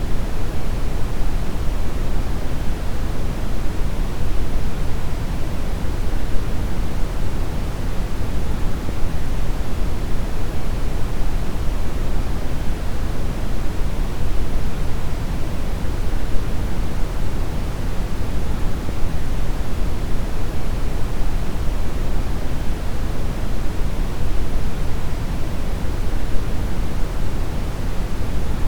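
Steady deep brown noise: an even, unchanging rush weighted heavily toward the bass, with the highs much softer.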